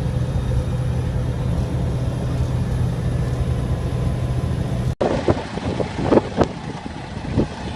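A truck engine runs with a steady low drone. Then the sound cuts off abruptly, leaving quieter running with scattered knocks and clicks.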